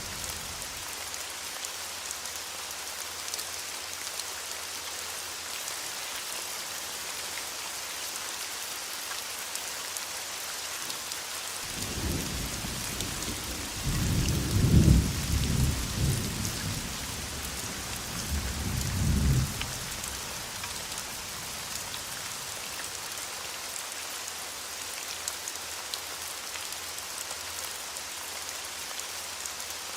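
Steady rain falling, with a roll of thunder rumbling in from about twelve seconds in, peaking a few seconds later and dying away by about twenty seconds.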